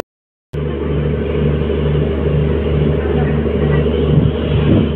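Steady low mechanical rumble of trains at a railway station, with a throb repeating about twice a second. It begins abruptly after half a second of silence.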